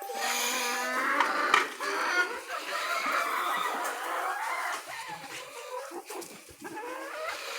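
A flock of chickens clucking and calling, several birds at once.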